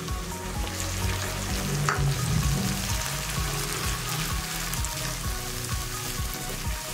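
Ground tomato sizzling as it fries in hot oil with fried onions and ginger-garlic in a nonstick kadhai, being stirred in; a steady frying hiss.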